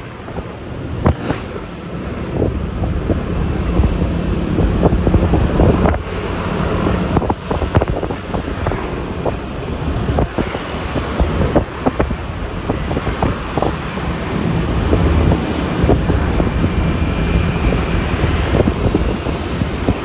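Wind noise on the microphone of a moving motor scooter, a Yamaha Lexi LX 155, with steady road and traffic noise underneath and frequent short pops from gusts hitting the microphone.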